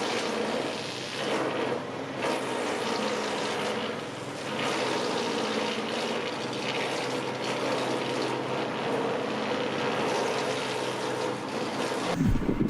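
Wood grinding machine running: a steady rushing noise with a low hum underneath, swelling and easing a little.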